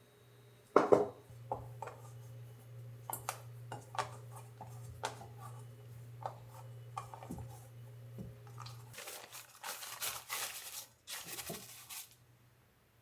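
Kitchen handling sounds: scattered clicks and knocks of dishes and utensils over a steady low hum that stops about nine seconds in, then about three seconds of rustling, crunchy noise in short bursts.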